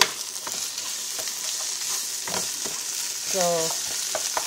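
Red curry paste frying in oil with shallots, garlic and kaffir lime leaves, sizzling steadily in a nonstick frying pan. A wooden spoon stirs and scrapes it, with a sharp knock of the spoon on the pan at the start.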